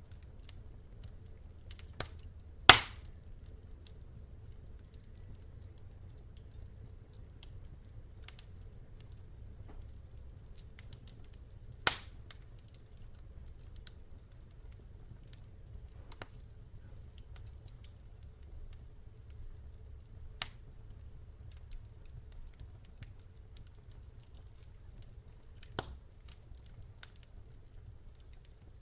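Campfire burning with a low steady rumble and sparse crackling, broken by occasional sharp pops from the wood, two of them loud, about 3 seconds and 12 seconds in.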